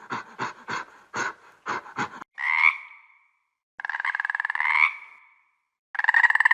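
An animal calling: a quick run of short calls, about four a second, for the first two seconds, then three longer, drawn-out calls.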